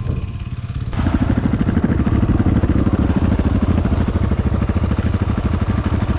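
Single-cylinder four-stroke Husqvarna dirt bike engine idling with an even, fast thumping beat. It starts abruptly about a second in.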